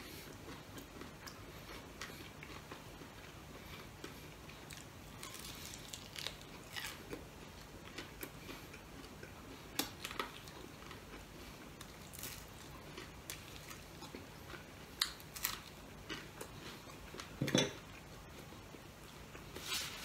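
A person biting and chewing fried chicken: faint chewing with many short crunchy clicks scattered through, and a louder knock about three-quarters of the way in.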